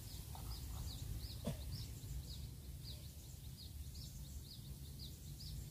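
A bird calling in a steady series of short high chirps, about two or three a second, over a low outdoor rumble.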